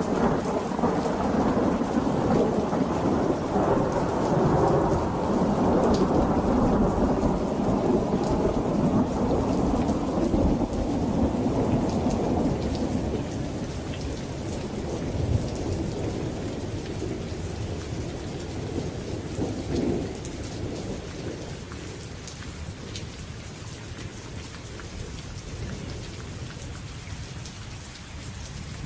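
Steady rain with a long roll of thunder that swells at the start and slowly fades over about twenty seconds, with a smaller rumble about twenty seconds in.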